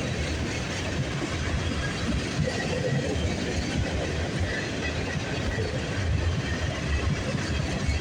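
Freight train rolling past: a steady rumble of steel wheels on the rails.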